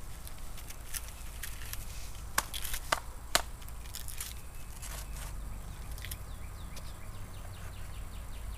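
Footsteps and light handling noises, with three sharp clicks or taps between about two and a half and three and a half seconds in.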